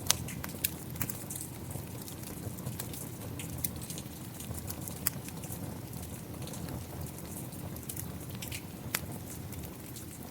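Wood fire crackling, with scattered sharp pops, over a steady sound of rain.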